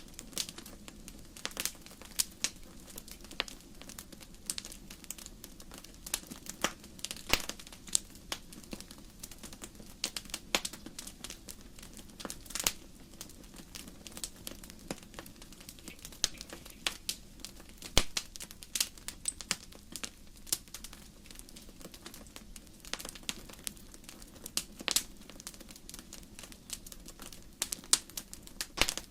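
Wood fire crackling: irregular sharp pops and snaps from burning logs, some much louder than others, over a low steady hiss of the flames.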